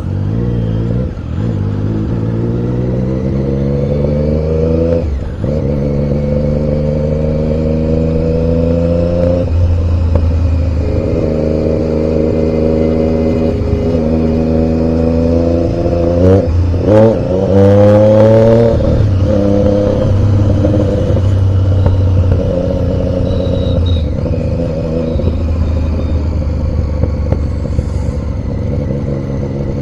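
Triumph Daytona 675's three-cylinder engine accelerating through the gears, its pitch climbing and dropping back at each shift, with a few quick revs about two-thirds of the way through before it settles to a steadier run.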